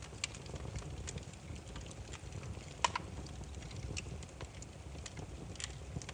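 Burning firewood crackling and popping over a low steady rumble of flame, with irregular sharp snaps; the loudest pop comes about three seconds in.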